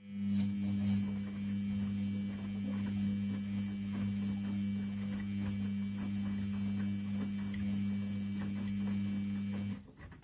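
Washing machine drum motor running, a steady low hum with faint clicks over it, starting suddenly and cutting off after about ten seconds: one turn of the drum in the wash cycle.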